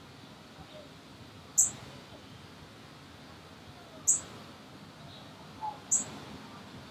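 A small bird calling outdoors with single short, very high, thin chirps, three of them about two seconds apart, over faint background noise.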